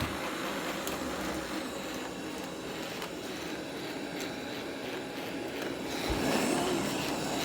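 Eufy robot vacuum running, a steady whir of its motor and brushes that grows a little louder about six seconds in.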